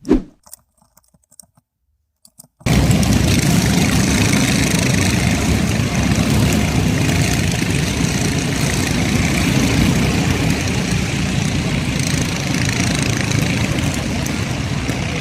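A short thump, then about three seconds in a sudden switch to loud, steady engine noise of Stoxkarts racing on the oval.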